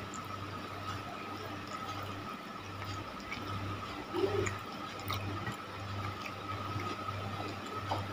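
Chewing of fried egg-coated macaroni and cilor: a soft low pulse about twice a second, with a few faint clicks. A steady faint high hum runs underneath.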